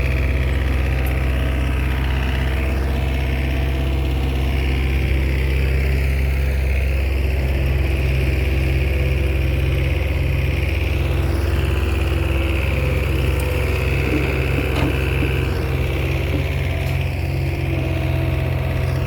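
Bulldozer diesel engine running steadily under work, with a higher whine that swells and fades several times.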